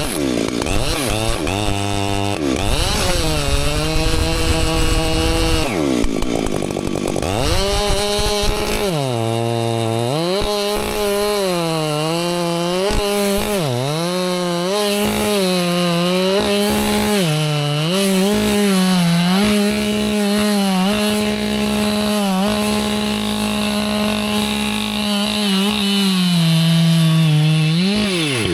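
Two-stroke chainsaw running at full throttle while cutting a stump with a dull chain. The engine pitch repeatedly sags and recovers as the chain bogs in the cut, then drops away right at the end as the throttle is let off.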